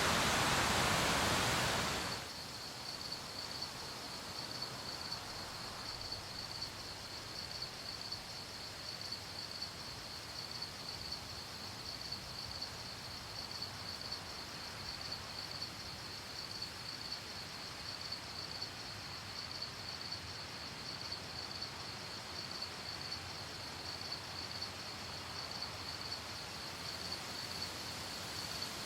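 Heavy rain hiss that cuts off suddenly about two seconds in, giving way to crickets chirping in a steady, rapid high-pitched pulse over a faint night-time background.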